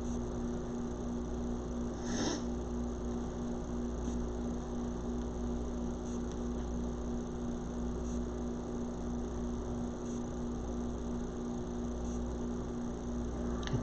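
A steady room hum with an even hiss underneath, and a brief faint sound about two seconds in.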